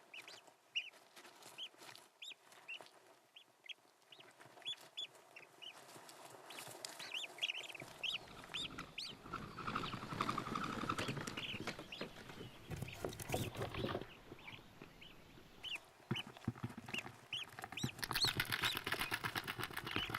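Common goldeneye ducklings peeping: many short, high peeps repeated throughout, joined by a soft shuffling noise from about eight seconds in.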